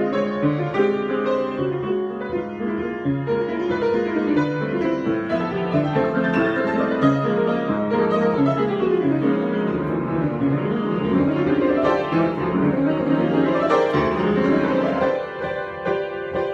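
Solo piano improvisation: flowing chords and runs of notes that thin out and settle on a held chord near the end.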